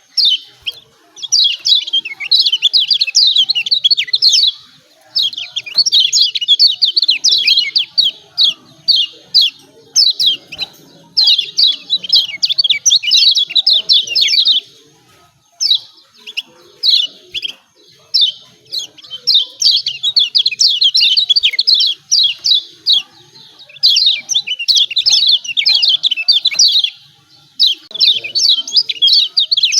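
Kecial kuning (Lombok yellow white-eye) giving fast, chattering 'ciak ciak' calls in runs of a few seconds broken by short pauses.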